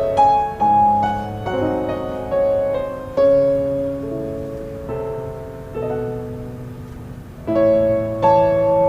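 Slow, gentle solo piano music: sustained notes struck one after another at an unhurried pace.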